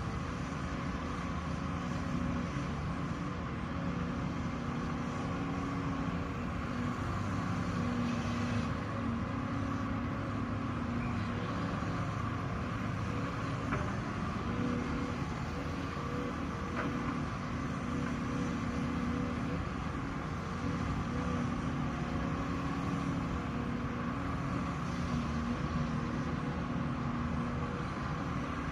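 Heavy diesel earthmoving machinery running steadily, its engine note holding at one level.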